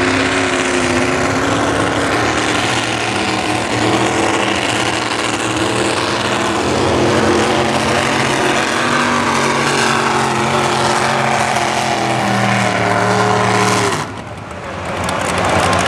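Naturally aspirated two-wheel-drive pulling truck's engine running at high revs under full load on a pull, its pitch wavering slightly. It cuts off abruptly about fourteen seconds in.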